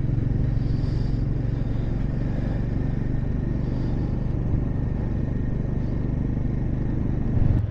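Motorcycle engine running steadily while riding, a constant low hum with road noise.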